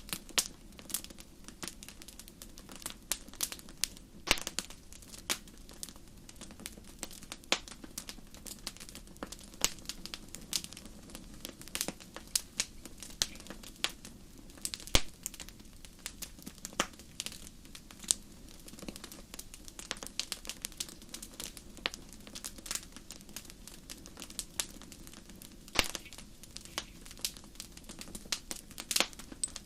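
Wood campfire crackling: irregular sharp pops and snaps, several each second with a few louder cracks, over a steady low rumble.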